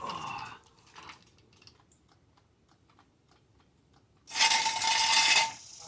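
Car being lowered off a jack: a run of light clicks and ticks, then about a second of loud hissing with a steady whistle-like tone in it.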